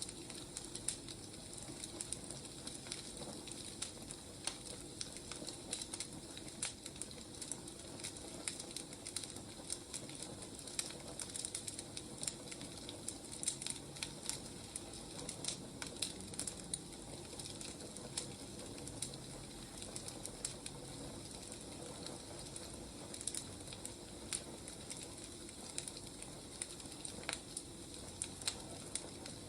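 Wood fire crackling steadily, with irregular small pops and snaps over a soft hiss.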